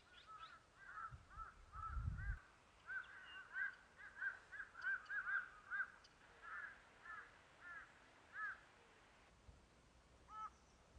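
A crow-like bird calling in a rapid series of short notes, two or three a second, for about eight seconds, then once more near the end. A brief low thump comes about two seconds in.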